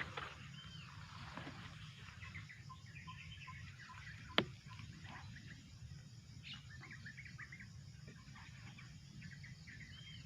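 Small birds chirping and calling in short, scattered notes over a low steady background rumble, with one sharp click about four seconds in.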